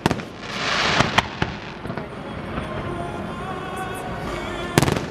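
Fireworks going off over music: a sharp bang at the start, a rush of hiss with two or three cracks about a second in, and another loud bang near the end.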